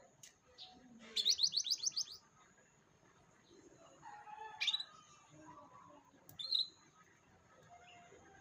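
Domestic canary singing: a quick trill of about ten rising notes, then a short call and, a couple of seconds later, a single chirp.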